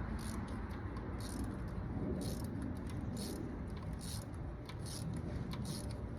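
Light, irregular clicking and rattling of hand tools and small metal parts being handled, several small ticks a second, over a steady low rumble.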